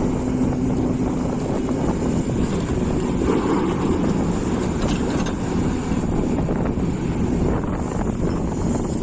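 Hitachi EX450 excavator's diesel engine running steadily at work, a continuous low rumble with no breaks.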